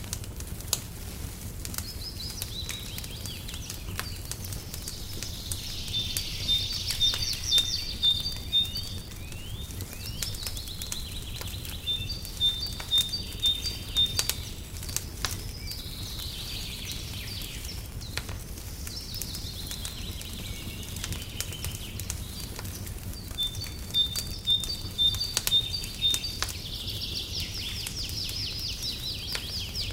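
Wood fire crackling with scattered sharp pops over a steady low rumble, while songbirds sing several bouts of quick repeated high notes and warbling phrases.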